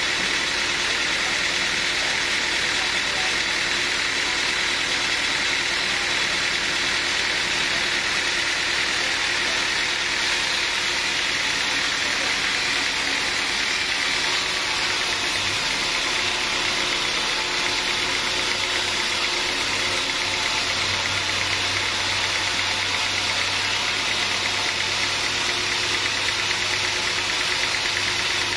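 Sawmill machinery running steadily with an even, engine-like noise; a low hum comes in about halfway through and grows stronger.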